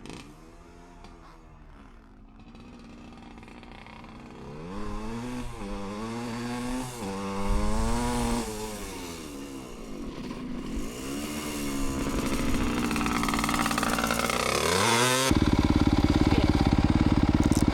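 Vintage Hodaka two-stroke dirt bike ridden toward the listener, revving up and easing off again and again as it runs through the gears, growing louder as it nears. It drops in pitch sharply near the end, then gives way to a loud steady noise.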